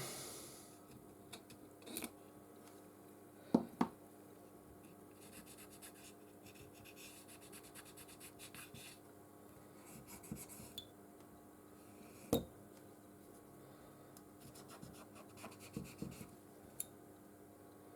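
Small hand tool scratching and rubbing lightly along an iPhone 13's frame edge, with a few sharp clicks and taps between the scraping, as old adhesive is cleared to seat the new screen.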